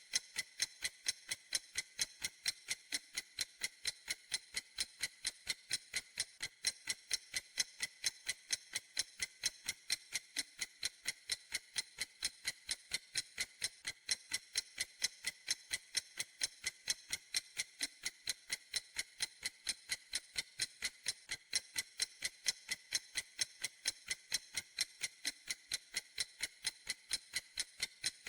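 Clock ticking at a steady, even rhythm, each tick a sharp, high click.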